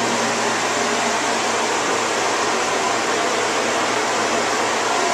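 Steady, even rushing noise of moving air, like a fan or blower, with a faint low hum underneath.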